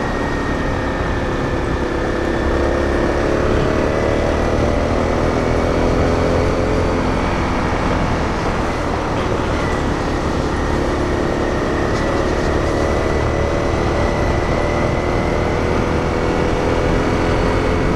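Small single-cylinder dual-sport motorcycle engine running at a steady cruise, its pitch drifting slightly up and down, with a constant low rush of wind and road noise.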